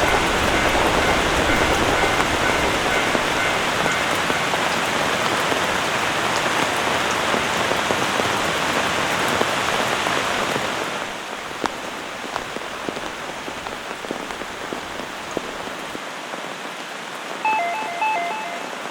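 Heavy rain falling steadily, easing to a lighter level about eleven seconds in. Near the end, a two-note electronic door chime sounds.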